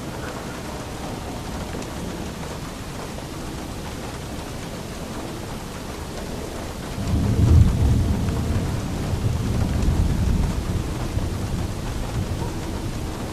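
Steady rain falling, with a deep roll of thunder coming in about halfway through. The thunder peaks just after it begins, rumbles on for several seconds and fades toward the end.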